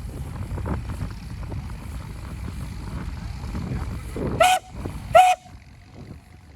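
Two short blasts of a steam ploughing engine's whistle, a little under a second apart, over a steady low rumble with wind on the microphone.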